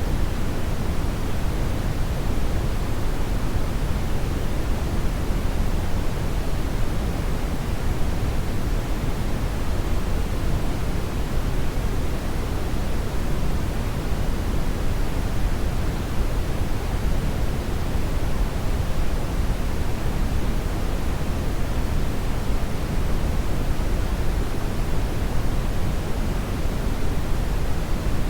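Hair dryer blowing steadily: an even, unbroken rush of air, deepest in the low range, with no change in speed.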